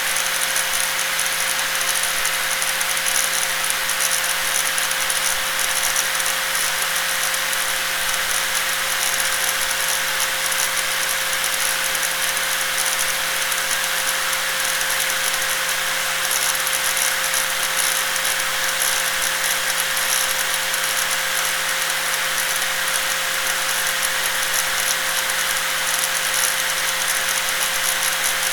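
Electric angle grinder running steadily at constant speed, a continuous motor whine with a hissing, rattling edge that holds unchanged throughout.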